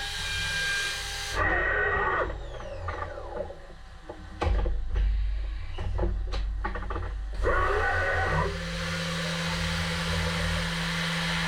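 HAAS Super Mini Mill CNC machine between cuts. A steady hiss cuts off suddenly about a second in, and the spindle winds down with a falling whine. A series of sharp clunks and clicks follows, typical of the automatic tool changer. The spindle then spins back up and settles into a steady hum.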